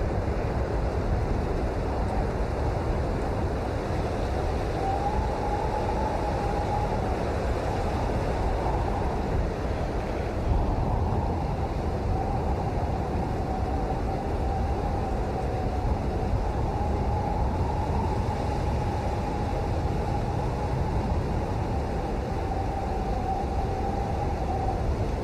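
Steady rain, an even rushing noise heaviest in the low end, with a faint, slowly wavering tone underneath.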